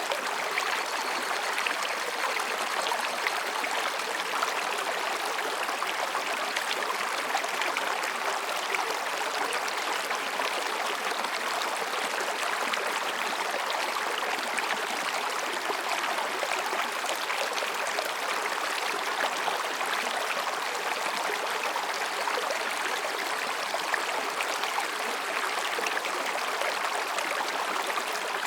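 Mountain stream babbling over and between rocks, a steady, even rush of water.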